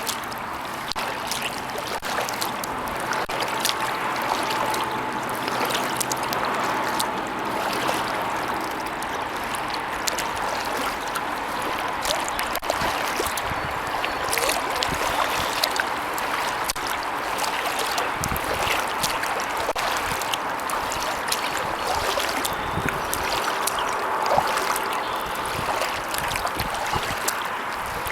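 Kayak paddling: water swishing and trickling off the paddle blades as it is stroked through the water, a steady wash dotted with small drips and splashes.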